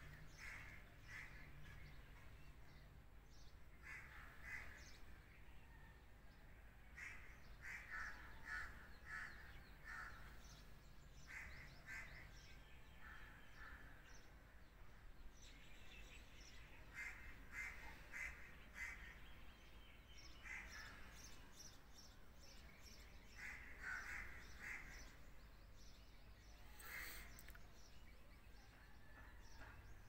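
Faint birds calling outdoors, short runs of quick calls repeating every few seconds, over a low steady rumble.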